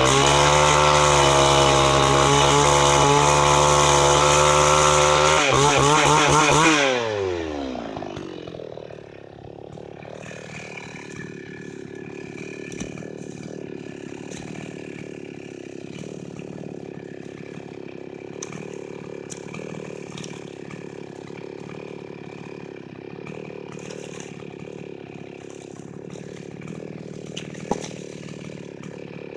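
Chinese-made two-stroke chainsaw running at full throttle, then the throttle is released about seven seconds in and the engine winds down to a steady idle. A single sharp click near the end.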